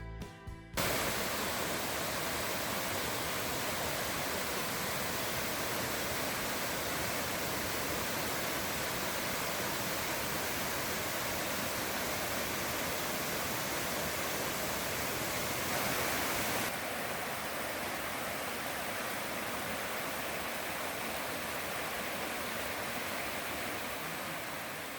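Sable Falls, a waterfall, rushing steadily. The sound turns slightly duller about two-thirds of the way through and fades away near the end.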